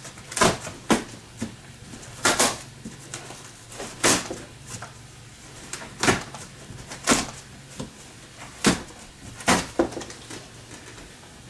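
Cardboard shipping box being opened and handled: about eight sharp knocks and scrapes of cardboard at irregular intervals.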